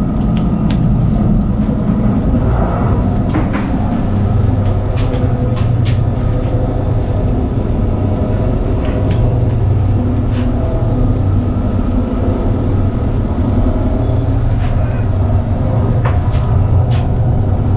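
Passenger train running, heard from inside the car: a steady low rumble with scattered short clicks and rattles.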